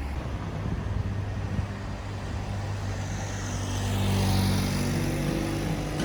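Car road noise: a steady low hum with tyre and wind hiss that swells about four seconds in. Music begins to fade in during the second half.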